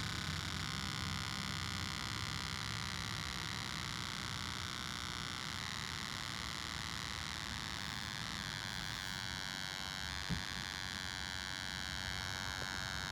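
Solar-powered electronic cicada sounder buzzing steadily, a dense cluster of high electronic tones that shift slowly in pitch. A single short knock about ten seconds in.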